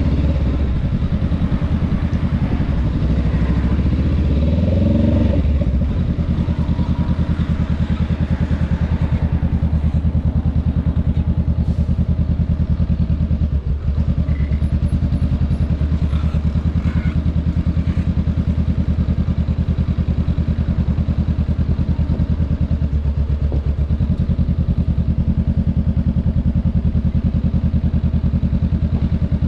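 Honda Rebel 500's parallel-twin engine, heard from the rider's seat. It rises briefly in pitch a few seconds in, then drops back and runs steadily at low revs, near idle, as the bike creeps in slow traffic.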